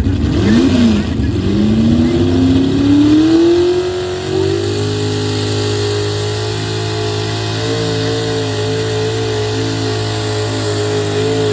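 Pulling vehicle's engine blipped twice, then winding up steadily over about three seconds and holding at high revs with a slight waver.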